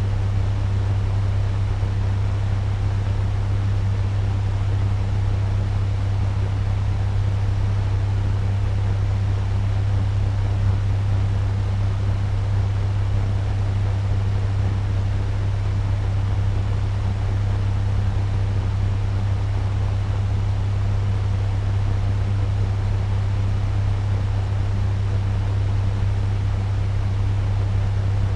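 Turbo fan running steadily at medium speed: a constant low hum with an even rush of moving air, unchanging throughout.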